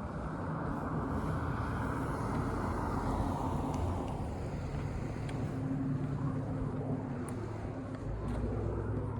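A car driving past, its tyre and engine noise fading about four seconds in, with a low engine hum continuing underneath.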